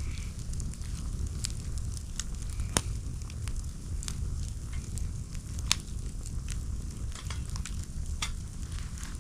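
Wood campfire burning: a steady low rumble with scattered sharp crackles and pops, the two loudest pops about three and six seconds in.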